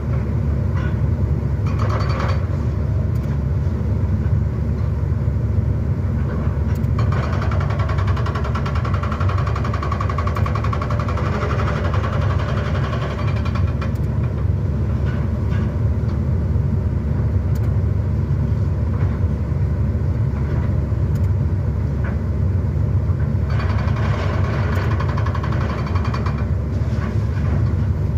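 Excavator engine running steadily with a heavy low rumble, with scattered knocks and two stretches of louder, higher-pitched rough noise laid over it, one early and one near the end.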